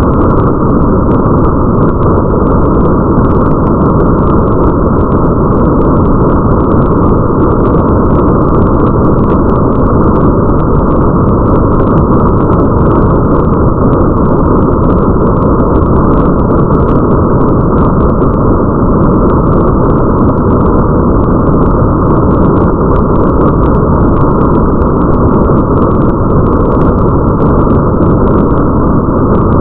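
Steady, muffled rain ambience: a dense, deep rumbling hiss with the highs cut off, and faint scattered patter ticks on top.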